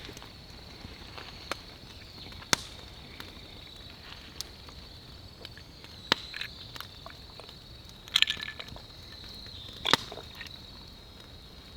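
Campfire burning with a few sharp, separate pops from the wood a few seconds apart, over a steady high-pitched tone.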